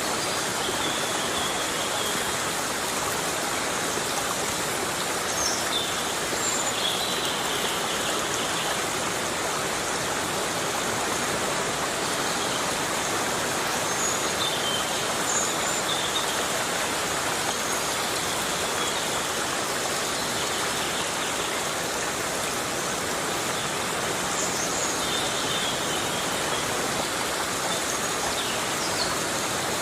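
Heavy rain falling steadily on a tropical forest: a dense, even hiss with no let-up. A few faint, short high chirps are scattered through it.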